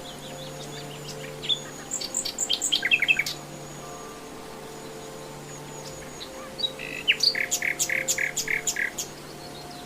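Common nightingale singing: a loud song phrase about two seconds in, then a longer one about a second and a half before the end's quiet stretch, built from a fast run of repeated notes, about three or four a second. A faint steady low hum sits underneath.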